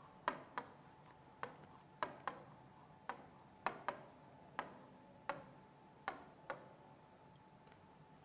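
Clock ticking in a tick-tock pattern, the clicks often coming in close pairs; they stop about six and a half seconds in.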